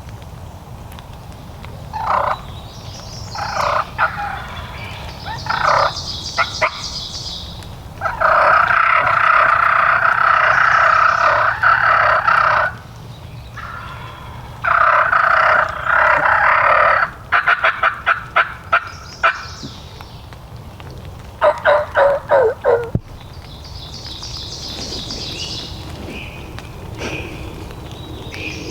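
Wild turkey gobbling: a series of loud calls, one long stretch about eight seconds in lasting several seconds, and runs of quick short notes later on.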